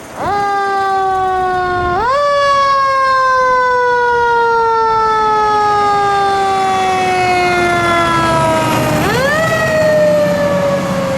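Fire apparatus siren that winds up quickly, then slowly falls in pitch as it coasts down, and is wound up again twice: about two seconds in and near the end.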